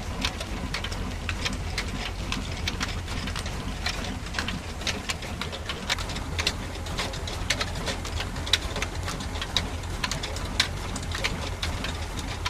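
Small engine-driven flour mill running: a steady low hum with a dense, irregular patter of sharp clicks and ticks over it.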